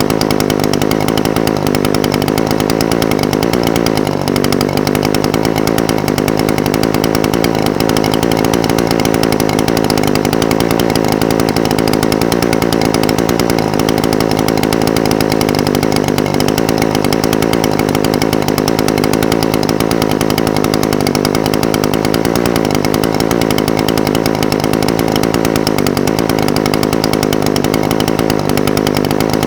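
Echo SRM-420TES brush cutter's small two-stroke engine idling steadily, its pitch wavering slightly a few times.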